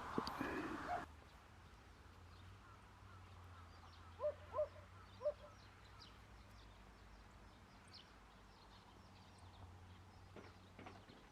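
A bird gives three short, honking calls about four to five seconds in, over faint high chirping of small birds. A brief noisy rustle ends abruptly about a second in.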